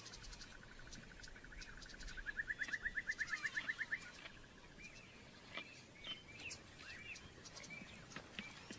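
Faint bush ambience of birds calling: a rapid, evenly pulsed trill swells louder about two seconds in and stops about four seconds in, followed by scattered short chirps.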